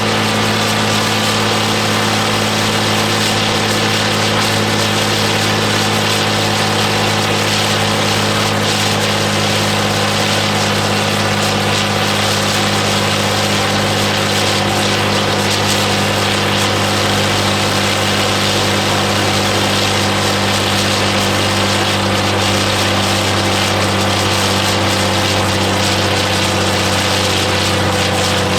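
Ford 7810 tractor's diesel engine running at a steady, unchanging speed under dynamometer load, loud and even throughout.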